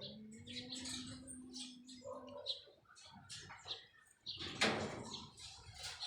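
Many short, high chirps of small birds. A steady low hum runs through the first two seconds, and a short, loud rushing noise comes about four and a half seconds in.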